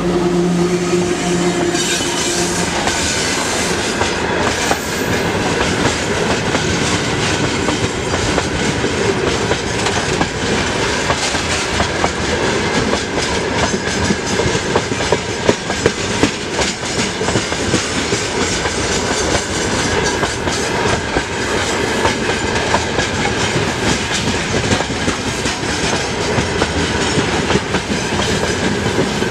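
Freight train of open wagons rolling past at speed, wheels clattering over rail joints in a steady rush of noise and clicks. A hum from the departing VL10K electric locomotive fades out in the first two or three seconds.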